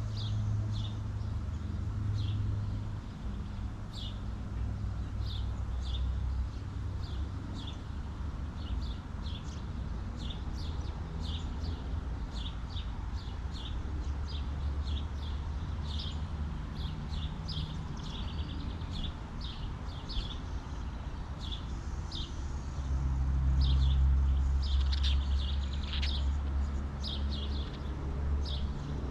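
Birds chirping, with many short, high chirps repeating irregularly throughout, over a low rumble that swells twice, about halfway through and near the end.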